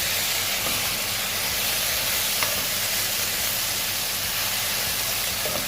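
Chicken and vegetable filling sizzling steadily in an oiled frying pan as it is stirred, with one light tap about two and a half seconds in.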